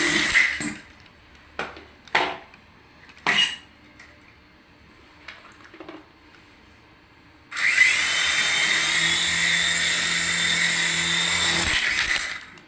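Small electric motor and rotor of a radio-control toy helicopter whirring steadily. It cuts off just after the start, gives a few short blips, then starts again a little past halfway, rising slightly in pitch as it spins up, and runs steadily for about four seconds before stopping near the end.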